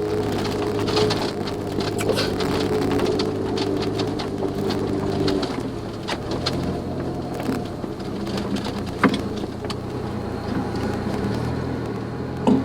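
Suzuki Jimny JB23W's 660 cc turbo three-cylinder running as it drives along an unpaved forest road. The engine note drops partway through, and short knocks and rattles from the rough surface come through.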